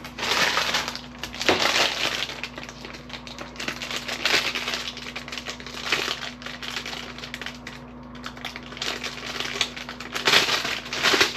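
Plastic film crinkling in irregular crackly bursts as double-sided nano gel ("alien") tape is handled and its protective backing picked at and peeled, a backing that is hard to get off.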